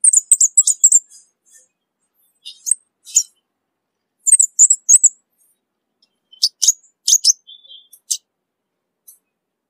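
Orange-bellied flowerpecker calling: very high, thin, sharp chirps in quick runs of several notes, with short pauses between the runs.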